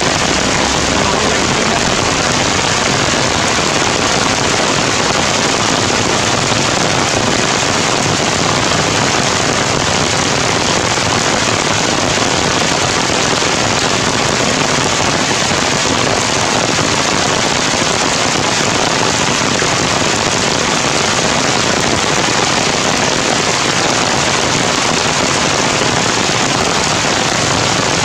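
Heavy rain falling steadily on tree leaves: a dense, even hiss with no breaks.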